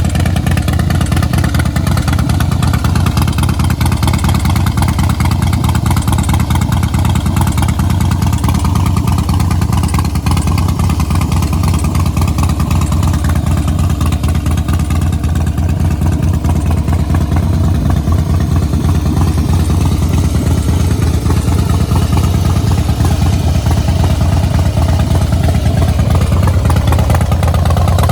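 Harley-Davidson Softail Breakout's 103-cubic-inch V-twin running steadily at idle through a Vance & Hines Big Radius aftermarket exhaust, loud and even.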